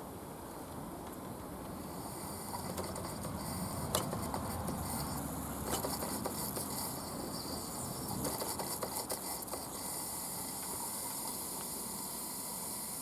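Mamod SP8 James Watt live-steam beam engine hissing steam, the hiss growing louder about two seconds in, with scattered light clicks and a sharper click about four seconds in. The engine is failing to run properly.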